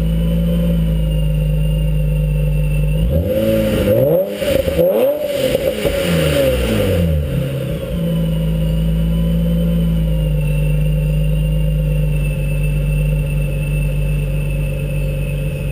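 Supercharged 2003 Nissan 350Z's 3.5-litre V6 through an HKS Hi-Power catback exhaust, running at a steady speed, revved up and down a few quick times about three seconds in, then settling back to a steady note.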